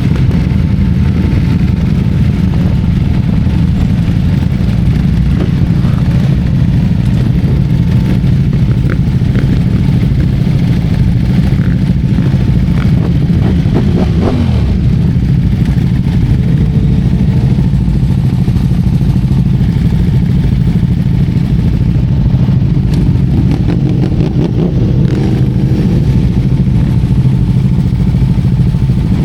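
Motorcycle engine running steadily while riding, with a short rise and fall in pitch about fourteen seconds in.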